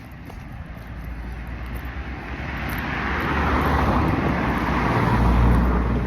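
A car driving past, its tyre and engine noise swelling to a peak in the second half and then starting to fade.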